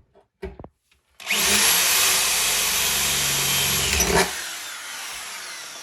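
Electric drill boring a hole with a metal drill bit: it starts about a second in, runs steadily for about three seconds, then is released and winds down.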